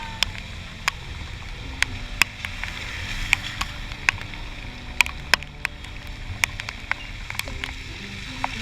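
Honda Click 125i scooter riding along, with its engine faint under wind rushing over a helmet-mounted camera's built-in mic. Sharp taps come at irregular moments throughout, several a second at times, from raindrops striking the camera housing.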